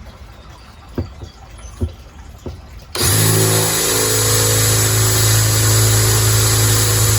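A few small knocks, then about three seconds in a power drill starts up and runs at a steady speed, boring a drainage hole through a plant pot.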